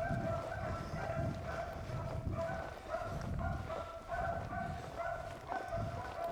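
Beagles baying on a rabbit's trail: a steady string of short, repeated calls.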